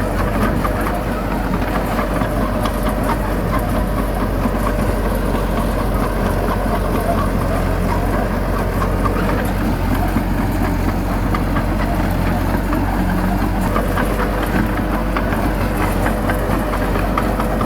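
Heavy diesel engine of earth-moving machinery running steadily, with scattered clanks and rattles over it.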